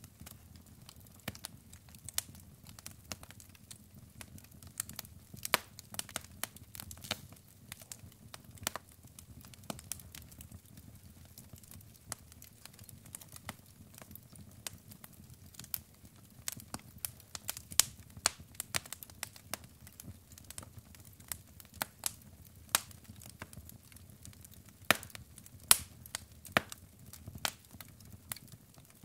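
Wood fire burning in a fireplace: logs crackling and popping at irregular intervals, with a soft low rumble of flames beneath. Several louder pops come in the second half.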